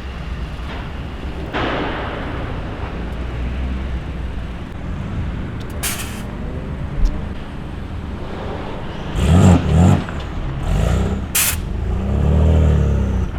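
Car engines running at a car meet, a steady low rumble, with loud revs about nine and a half seconds in and a rev that rises and falls near the end. A few short sharp hisses cut in around the middle.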